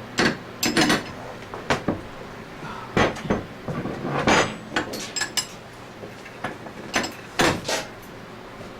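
Metal tools and parts clinking and knocking irregularly during hands-on mechanical work, a dozen or so sharp clanks, some ringing briefly.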